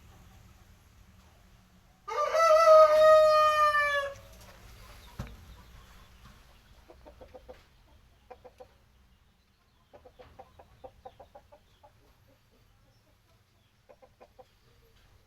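Aseel rooster crowing once, a loud call of about two seconds that drops in pitch at the end. It is followed by several short runs of quick, quieter clucks.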